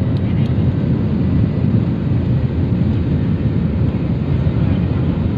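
Passenger airliner cabin noise: a loud, steady, low rumble of the jet engines and airflow, heard from inside the cabin.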